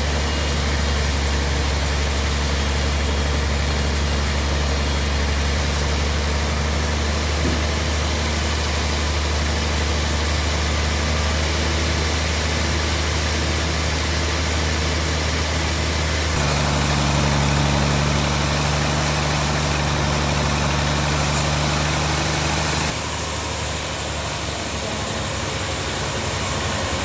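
Sawmill bandsaw machinery running with a steady mechanical hum. The tone shifts about 16 seconds in and eases slightly about 23 seconds in.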